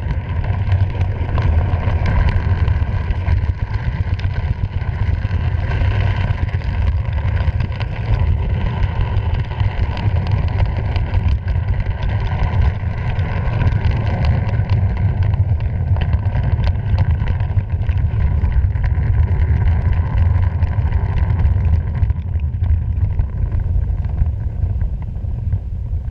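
Freight train in motion, heard from a camera mounted on board: a steady heavy rumble with wind on the microphone and frequent short clicks and rattles.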